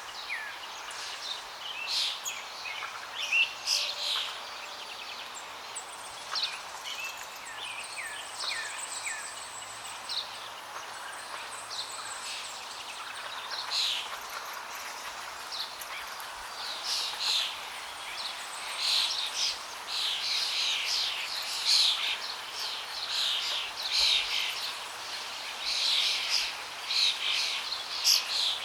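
Songbirds chirping and calling over a steady rush of flowing water; the calls come thicker and louder in the second half.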